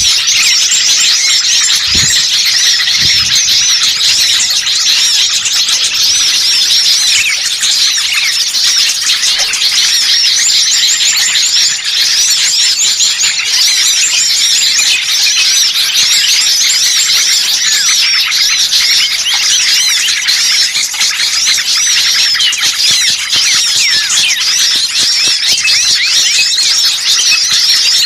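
Dense, continuous chorus of many small songbirds chirping and twittering at once, high-pitched and busy. A mixed small-bird lure recording ('burcil ribut') made to draw in wild birds.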